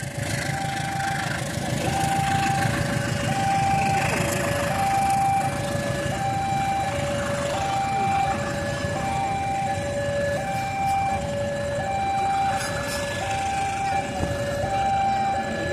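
Two-tone hi-lo warning alarm, a high and a low note alternating evenly about every 0.7 s, over the low running of vehicle engines.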